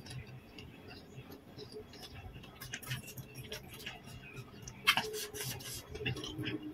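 Faint crisp clicks and small crunches from chewing raw apple and pear, with soft scraping as a slice of green pear is dabbed into chili sambal in a stone mortar.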